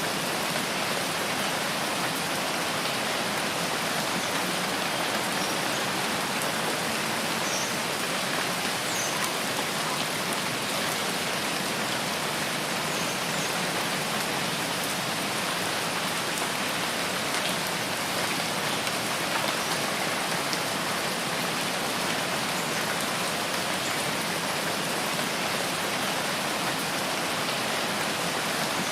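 Steady rain falling on foliage and ground, an even, unchanging hiss.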